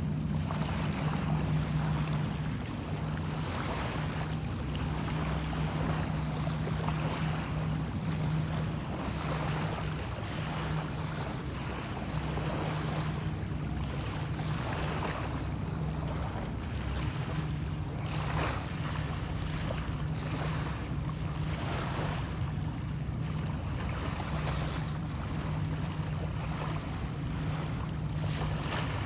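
Small bay waves washing in and easing every second or two, with wind on the microphone, over a steady low drone.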